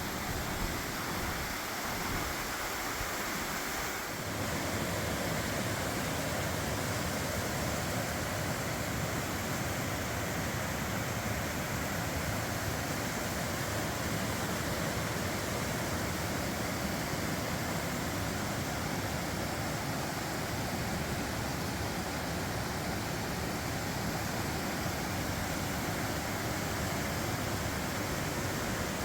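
Small creek waterfall: a steady rush of falling water, a little louder from about four seconds in.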